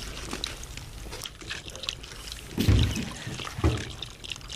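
Liquid pouring in a steady trickle, with two dull thumps about a second apart near the middle.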